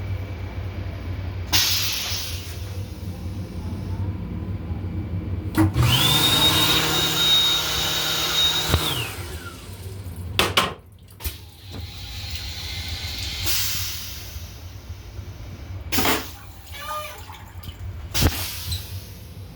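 Restroom fixture on an LIRR M7 railcar running: a loud rushing noise with a steady high whine for about three seconds, the whine dropping as it shuts off. The low rumble of the moving train runs underneath, with several sharp clicks and knocks.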